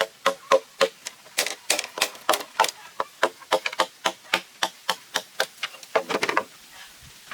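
Rapid blows on hollow bamboo, about three to four a second, each with a short hollow ring. The strikes stop about a second before the end.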